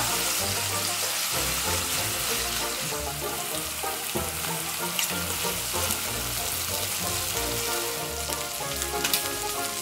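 Shrimp sizzling in hot oil and melting garlic-parsley butter in a frying pan, stirred with a spatula as the butter melts. Soft background music with held notes plays underneath.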